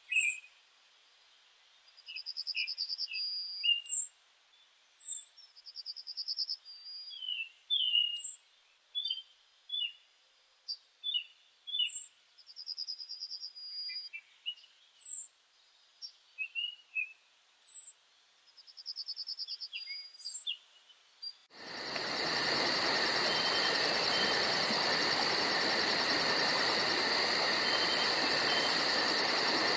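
Woodland songbirds calling and singing in short chirps, whistles and buzzy trills over a very quiet background. About 21 seconds in, this cuts abruptly to a loud, steady insect chorus with a fast high pulsing, like crickets or cicadas.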